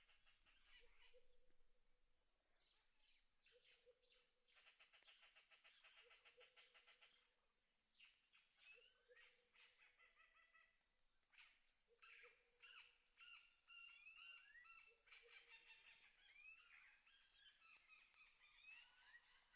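Faint birds calling and chirping, with quick trills and a short low note that repeats every few seconds.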